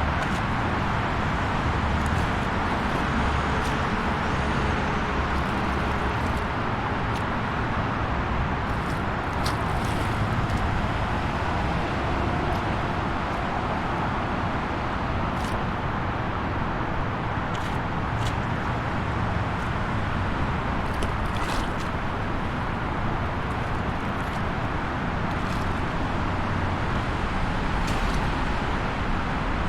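Continuous highway traffic: a steady hiss of tyres and engines with a low rumble underneath, and a few faint, brief high-pitched ticks scattered through.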